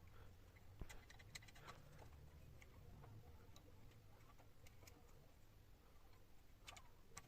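Near silence with faint, irregular clicks and light taps: a small cluster about a second in, then scattered single ones, and a couple more near the end.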